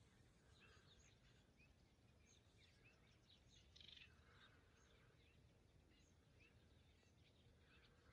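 Faint birdsong over near silence: scattered short chirps, with a slightly louder cluster about four seconds in.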